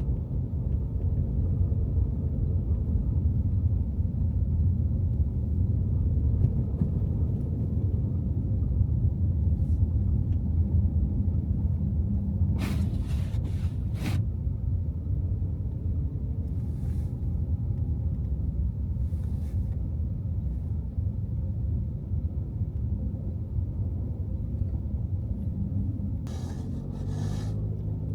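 Car driving through snowy city streets: a steady low rumble of engine and road noise, with the engine note gliding slightly. There are a few short knocks about halfway through and a cluster more near the end.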